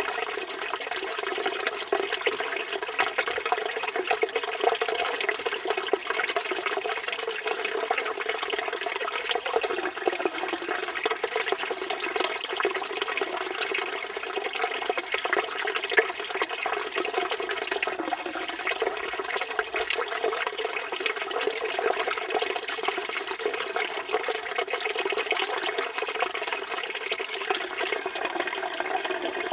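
Water from a village fountain's spout running steadily and splashing into the stone basin below.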